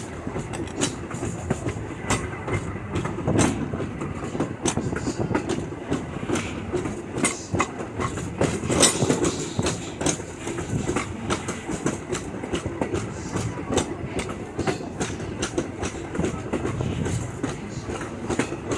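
Steam excursion train's passenger car rolling along the track: the steel wheels click and clack irregularly over rail joints above a steady rumble.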